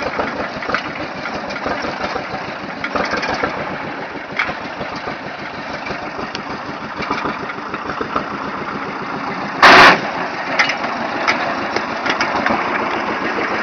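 Motor vehicle engine running steadily while hauling a boat uphill, with scattered rattles and knocks. A single loud, brief bang comes about ten seconds in.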